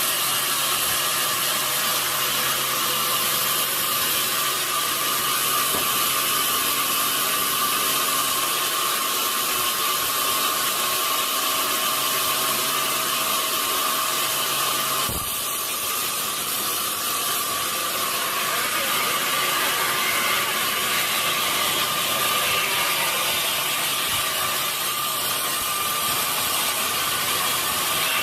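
Sawmill machinery running steadily: a dense mechanical noise with a steady whine, changing abruptly about halfway through.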